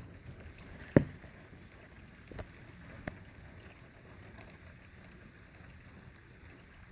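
Steady low rumble of wind and rain during a thunderstorm, with a sharp knock about a second in and two fainter knocks a little later.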